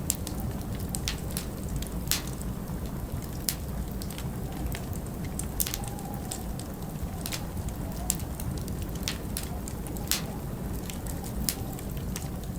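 Log fire crackling in a fireplace, with irregular sharp pops about once or twice a second over a steady low rumble of winter wind.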